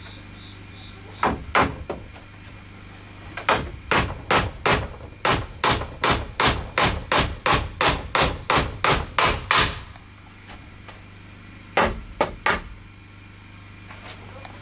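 Hammer blows on wood: two strikes, then a steady run of about three blows a second lasting some six seconds, then three more blows near the end.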